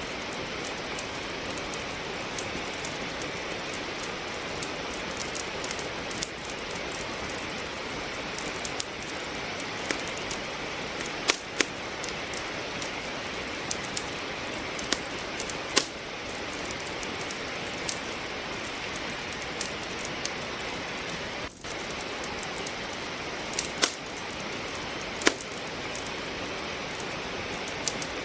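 Steady rain falling, with a wood fire in a fireplace crackling: irregular sharp pops scattered over the hiss. The sound briefly drops out about three-quarters of the way through.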